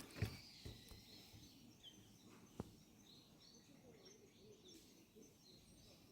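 Quiet forest ambience with faint, scattered bird chirps. A soft thump sounds right at the start and one sharp click a little over two seconds in.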